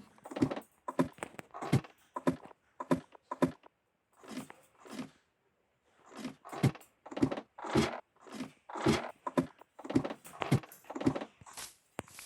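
A series of irregular dull knocks, a few a second, with short pauses between runs.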